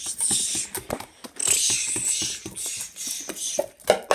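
Slime being handled and poked, with many quick small clicks and pops, and two stretches of hissing noise, one at the start and a longer one about a second and a half in.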